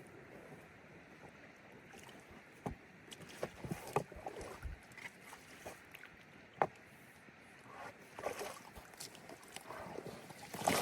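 A small boat being paddled on a lake: water swishing and splashing, with scattered sharp knocks against the hull.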